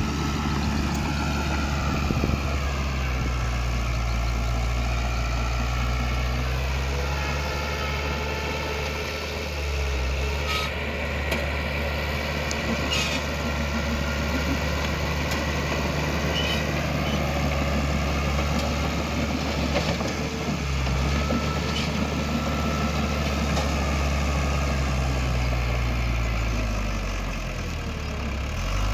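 Heavy earthmoving machine's diesel engine running steadily, its speed rising and falling several times as it works. A few short metallic knocks come through about ten to thirteen seconds in.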